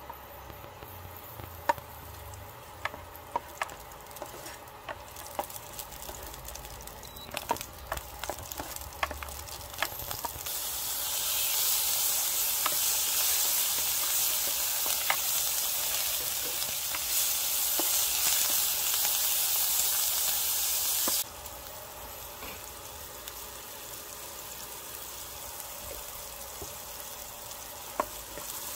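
Garlic slices frying in oil in a nonstick pan, with a spatula ticking and scraping against the pan. About ten seconds in, raw chicken pieces go into the hot oil and a much louder sizzle starts; it cuts off suddenly about twenty seconds in, and quieter frying and stirring carry on.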